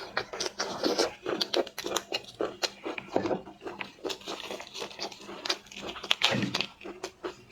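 Close-up eating sounds of steamed lobster: a rapid run of crackling and clicking as shell is broken and picked, mixed with wet chewing, and two louder, deeper wet mouth sounds about three and six seconds in.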